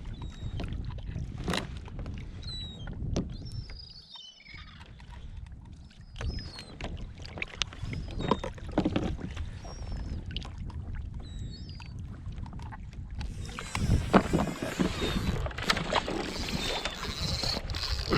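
Water sloshing around a fishing kayak, with scattered knocks and brief high chirps. About 13 seconds in, a louder hiss of water or wind joins and carries on.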